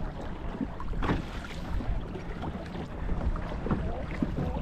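Water slapping and sloshing against a kayak hull, with wind buffeting the microphone. Irregular knocks sound through it, and a few short wavering tones come in the later part.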